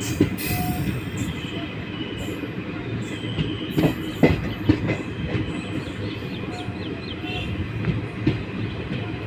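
Express passenger train running on the rails: a steady rumble, with a few sharp knocks close together about four seconds in.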